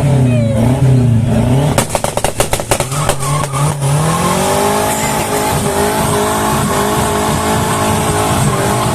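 Turbocharged drag car engine revving unevenly, then a rapid string of about a dozen sharp exhaust pops for two seconds, then the engine note climbs and holds at high revs.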